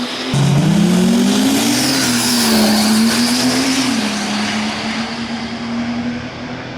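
Diesel drag-racing truck engine at full throttle on a run: after an abrupt change about a third of a second in, its pitch climbs, wavers, holds steady for a few seconds and drops away near the end.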